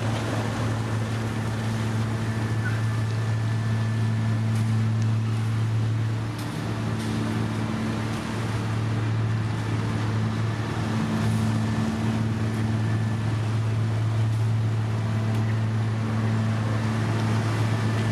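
Heavy paving machinery's diesel engine running at a steady speed, a constant low hum with a little dip in loudness partway through.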